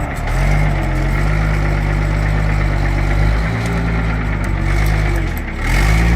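Heavy truck's diesel engine running under load, its pitch sagging and picking up again about three times.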